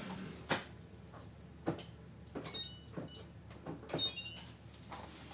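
Kitchen handling noises: a series of separate knocks and clinks, the ones about halfway through and near the four-second mark followed by a brief metallic ring, as metal cookware is moved and set down.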